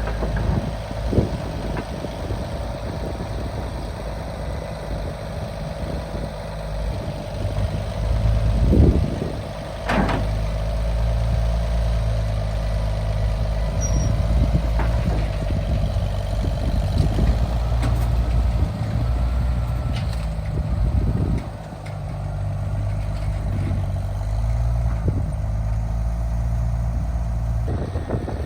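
A vehicle engine running steadily, with a few short knocks or clanks over it, the clearest about a second in and about ten seconds in.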